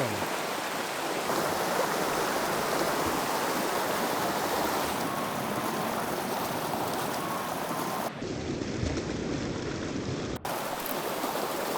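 Creek water running steadily over stones. About eight seconds in, the sound switches abruptly for about two seconds to a duller rush with more low rumble, then cuts back after a brief dropout.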